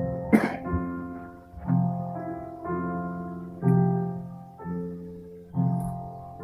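Slow piano music: sustained chords changing about once a second, with a short noisy sound about half a second in.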